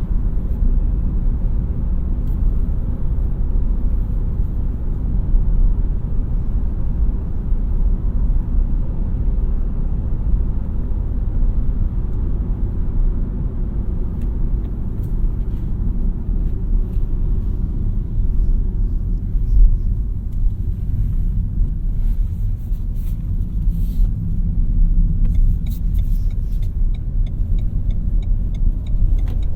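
2017 Renault Mégane TCe 100's 1.2-litre turbocharged four-cylinder petrol engine and road rumble while driving at a steady pace. A few faint ticks come near the end.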